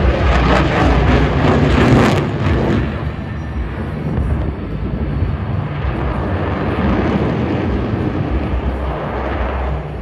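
F-22 Raptor's twin Pratt & Whitney F119 turbofans passing in a loud roar, crackling hard for the first two to three seconds and then settling into a steadier roar.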